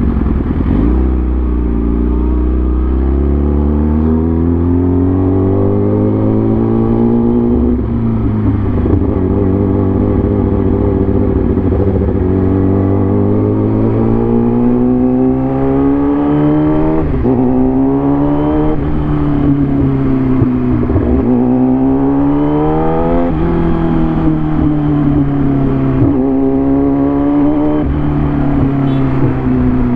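A road vehicle's engine running under way, its pitch climbing as it revs and then dropping sharply several times in the second half, like accelerating through gear changes.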